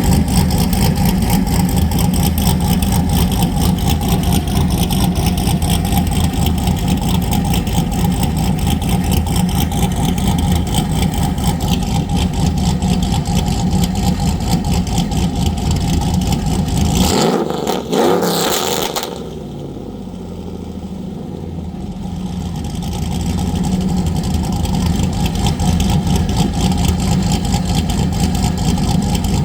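2006 Chevrolet Silverado SS's 6.0-litre V8 with a BTR stage 3 cam and straight-piped exhaust, idling with a choppy, pulsing beat. About seventeen seconds in, it is blipped once, rising and falling quickly, and dips briefly before settling back to idle.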